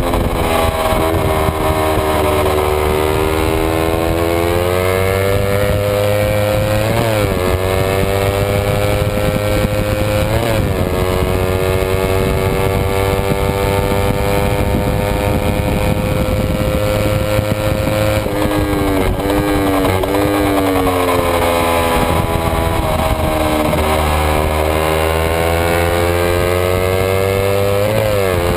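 Kawasaki Ninja 250's parallel-twin engine at racing revs, heard from on board. It winds up through the gears with quick shifts about 7 and 10 seconds in, holds steady at high revs, shifts down around 19 to 20 seconds, then climbs again to another shift near the end.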